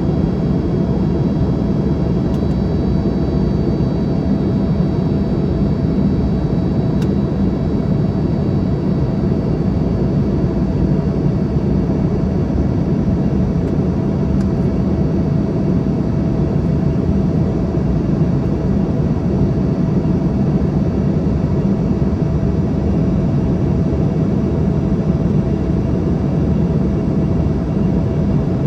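Steady cabin noise of an Embraer ERJ-145 in flight: a low rumble of airflow and engine noise, with a thin, steady whine from the rear-mounted Rolls-Royce AE 3007 turbofans.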